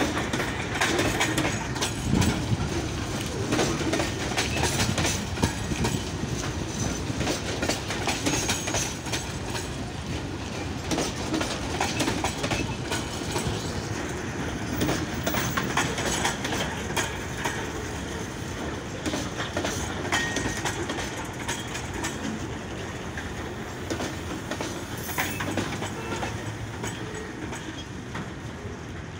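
Goods train's covered box wagons rolling past, the wheels clacking over the rail joints amid steady rattling, gradually fading.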